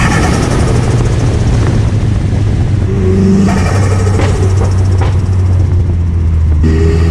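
Car engine running steadily with a low drone, with two short sharp cracks about four and five seconds in. The sound changes abruptly about three and a half and six and a half seconds in.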